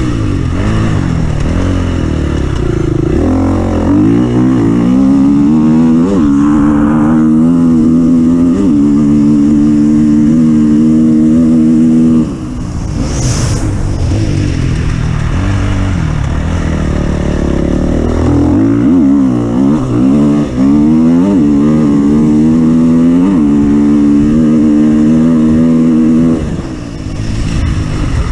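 An off-road vehicle's engine under hard throttle, climbing in pitch in steps as it shifts up, then holding steady. About 12 seconds in the throttle comes off, with a brief hiss, then the engine revs up and holds again.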